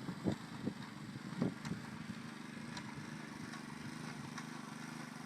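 Walk-behind road line-striping machine running with a steady low hum. A few light knocks come in the first second and a half.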